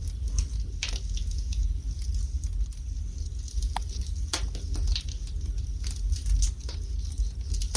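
Fire burning in a fireplace, crackling with irregular sharp snaps and pops over a low steady rumble.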